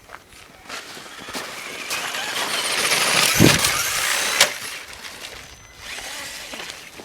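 A truck driving in for a jump, its noise building to a close pass. There is a heavy thud about three and a half seconds in and a sharp knock a second later, then the noise fades away.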